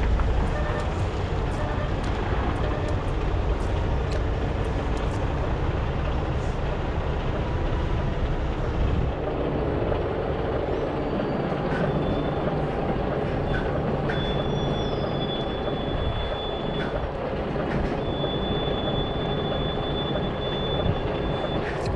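Semi truck's diesel engine running at low revs while the truck and trailer are slowly manoeuvred into a loading dock. A thin, steady high squeal comes in about halfway through and holds for a few seconds at a time.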